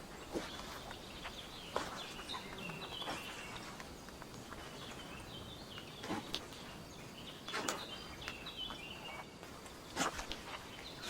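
Forest birds singing short phrases of quick stepped chirping notes, over a steady outdoor hiss. A few sharp crackles come every second or two.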